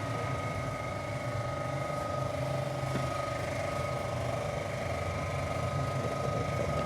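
Suzuki Alto engine idling steadily, a small car engine the mechanic says has a tick-tick noise from loose tappets.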